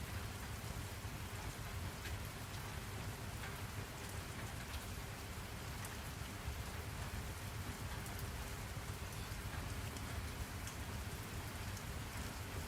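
Steady rainfall: a constant hiss of rain with scattered individual drops ticking on a surface.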